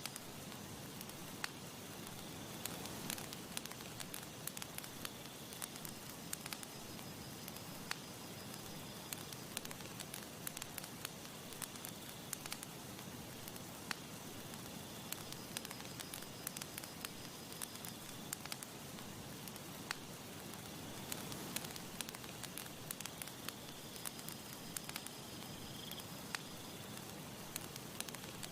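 Campfire crackling, with frequent sharp pops over a soft steady hiss, and faint high tones that come and go.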